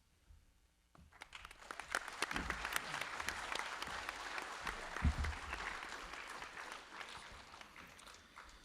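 Audience applauding: many hands clapping that starts about a second in, builds, and slowly dies away near the end.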